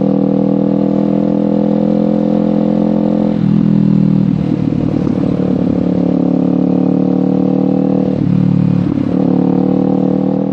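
Kawasaki Ninja 500's parallel-twin engine running through a LeoVince GP Corsa Evo exhaust, steady at first, then louder and rougher from about three seconds in before settling again near the end.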